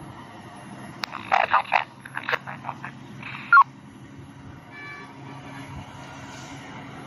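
Heavy diesel truck engine droning steadily under load on a climb, with a quick run of loud, short, sharp bursts about a second in, lasting a couple of seconds.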